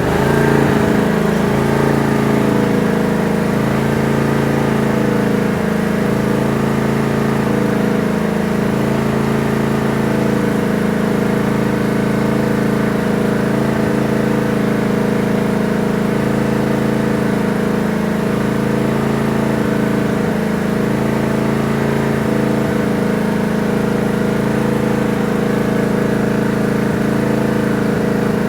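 Tractor engine running steadily at low speed, its tone wavering slightly every couple of seconds.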